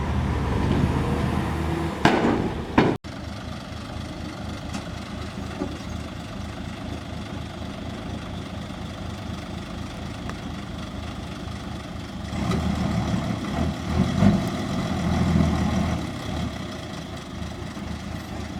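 Heavy construction-vehicle diesel engine running steadily, with a couple of sharp bangs just before a brief dropout about three seconds in. The engine grows louder for a few seconds about two-thirds of the way through, then settles again.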